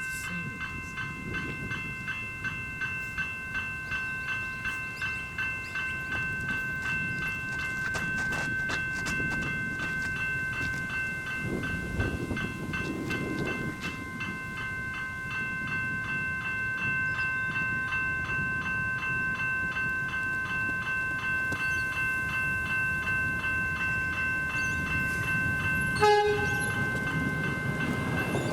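Two General Signals electronic crossing bells ringing in a fast, steady repeated pattern at an activated level crossing, with a low rumble slowly building underneath as a train approaches. Near the end comes one short, loud toot.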